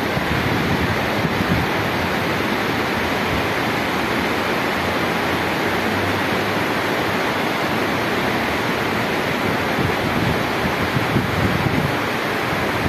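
Rain falling steadily, an even hiss, with wind buffeting the microphone in irregular low rumbles.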